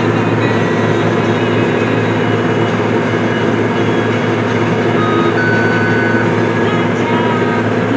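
Tractor engine running steadily while baling hay, with a brief high tone about five and a half seconds in.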